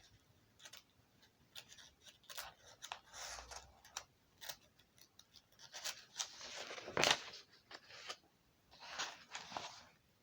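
Faint scattered rustling and clicking, with a louder rustle or scrape about seven seconds in.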